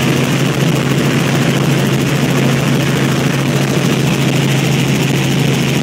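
Helicopter in flight heard from inside the cabin: steady, loud rotor and engine noise with a constant low hum.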